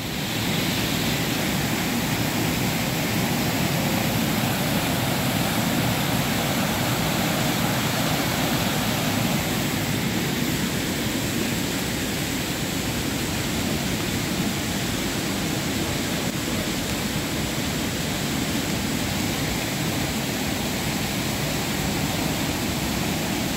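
Fast-flowing water rushing steadily, a continuous even hiss without breaks.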